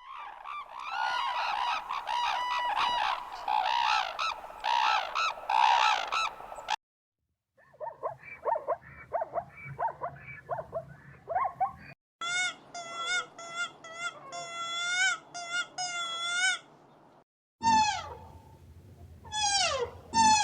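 Separate animal-call recordings cut one after another, with brief silences between them. First come several seconds of dense, overlapping calls, then a stretch of quick, short chattering calls, then a run of clear pitched calls repeated about ten times, and finally calls that fall sharply in pitch.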